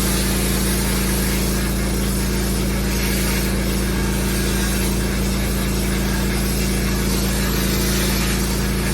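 Pressure washer engine running steadily at working speed, with the hiss of high-pressure water spraying onto block paving.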